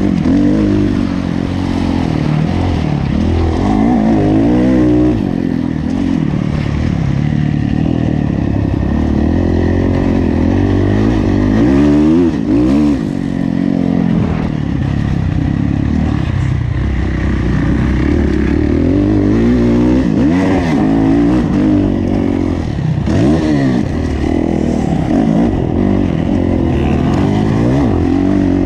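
Kawasaki KX450F four-stroke single-cylinder motocross engine under hard riding, its pitch climbing and dropping again and again as the throttle is opened and rolled off.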